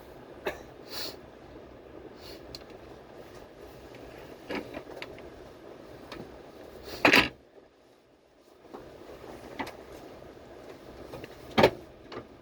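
Subway train running, heard from inside the car: a low rumble broken by sharp clacks and knocks every few seconds, the loudest about seven seconds in and another near the end.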